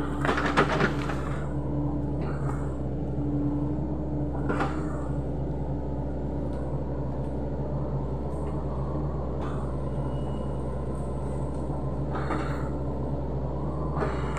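Sany SY75C excavator's diesel engine running steadily under load, with sharp cracks and knocks over it: a quick cluster about half a second in, then single ones every few seconds.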